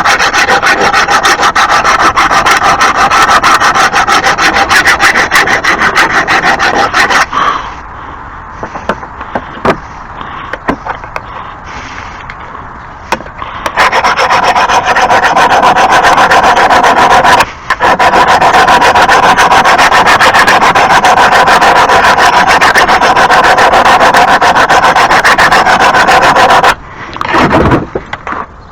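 A lawn mower blade being sharpened: a loud, continuous metal-on-metal rasping. It drops away for several seconds after about seven seconds, then runs again with one short break and stops near the end.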